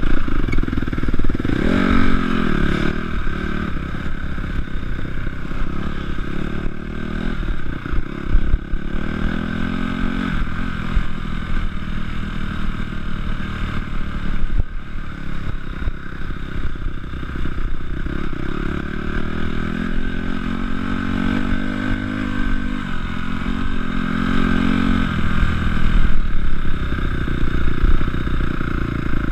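A Honda CRF250 four-stroke single-cylinder motocross engine, ridden hard and heard close from the rider's chest. Its pitch rises and falls over and over as the rider works the throttle and the gears.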